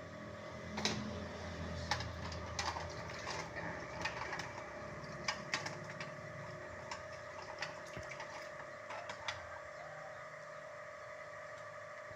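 Scattered clicks and knocks of things being handled while a refrigerator is cleaned out, over a steady hum.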